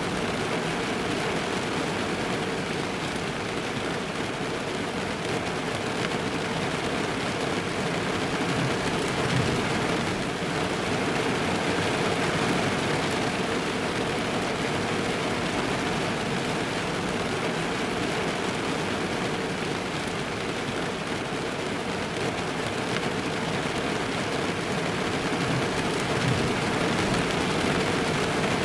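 Rain falling steadily on a car's roof and windows, heard from inside the car as a dense, even patter of drops.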